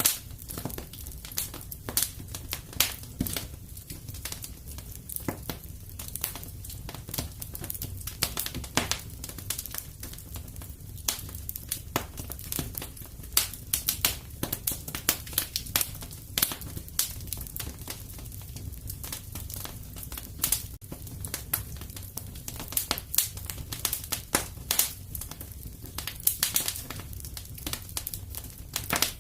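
Wood fire burning in a fireplace: a steady low rumble of flames with irregular crackles and sharp pops of burning logs.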